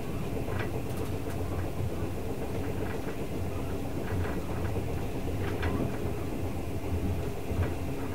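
Twilight Express sleeper train running, heard inside a passenger coach: a steady rumble of wheels on rail, with a few faint scattered clicks.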